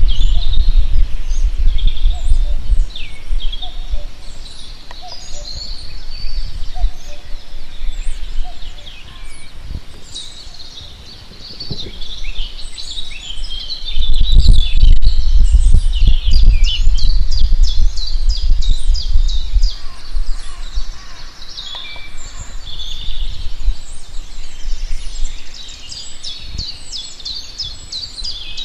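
Several songbirds singing at once: overlapping chirps, whistles and fast trills. A deep rumble sits under them at the start and again from about halfway through.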